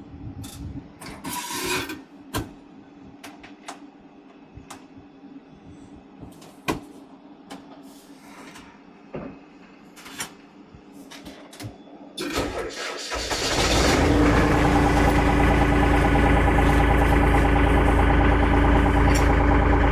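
Scattered clicks and knocks, then, about twelve seconds in, a Kioti DK65S tractor's diesel engine cranks briefly, starts and settles into a steady idle.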